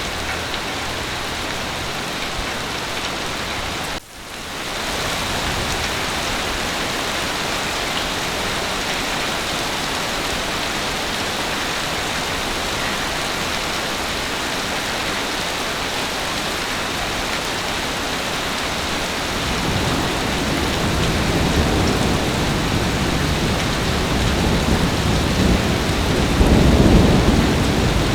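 Heavy rain falling as a steady, even hiss, with a brief sharp dip in level about four seconds in. From about twenty seconds in, a low rumble of thunder builds under the rain, loudest near the end.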